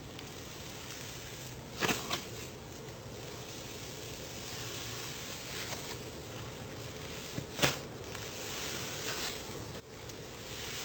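Slime being handled: a steady soft crackling hiss, with a couple of sharp pops about two seconds in and a louder pop near eight seconds.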